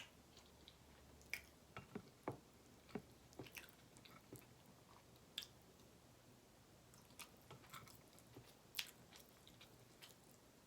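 Faint, close-up chewing of a mouthful of butter chicken and naan: irregular wet mouth clicks and smacks, a few a second at times, with short gaps between.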